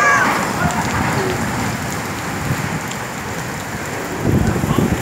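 Heavy rain pouring down in a violent night storm, a steady dense hiss, with a louder low rumble swelling up about four seconds in.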